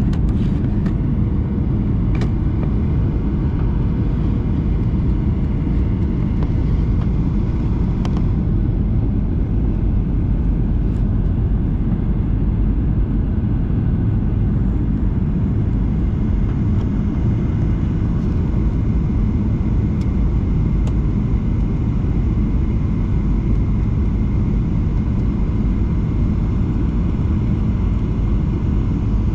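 Boeing 737-800 cabin noise: a steady low rumble of engines and airflow, heard from inside the cabin, with a few faint clicks in the first several seconds.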